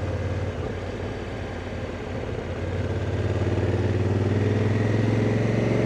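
Honda Africa Twin motorcycle engine running while riding, heard from on the bike; about two and a half seconds in its note rises slightly and grows louder as the throttle opens.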